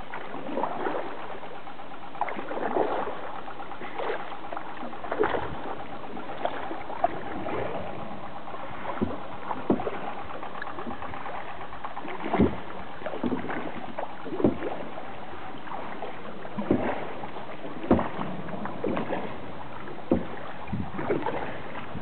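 Kayak paddles dipping and pulling through calm sea water, an irregular stroke-by-stroke splashing about once a second over a steady wash of water.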